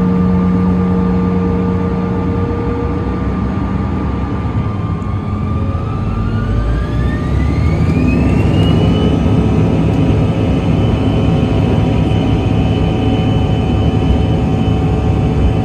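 CRJ-900's rear-mounted GE CF34 turbofans spooling up, heard from inside the cabin: a whine rises in pitch over about four seconds and then holds steady over a loud engine rumble as thrust is set for takeoff.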